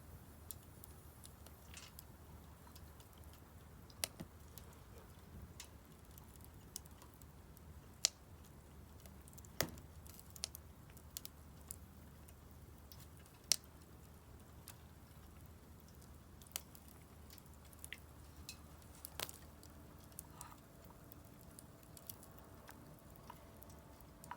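Firewood burning in a Solo Stove Campfire fire pit. Irregular sharp crackles and pops sound over a low, steady background, with the loudest pops a few seconds apart near the middle.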